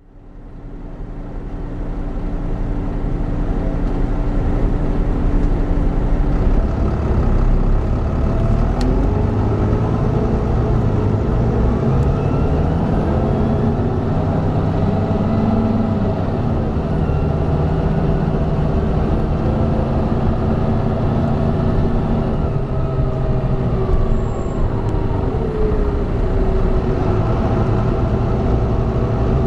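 Volvo B9TL bus with a Volvo B9B-310 diesel engine and ZF Ecomat 6HP592C automatic gearbox, pulling away and accelerating. The engine pitch rises, drops and rises again as the gearbox changes gear, then runs steadily.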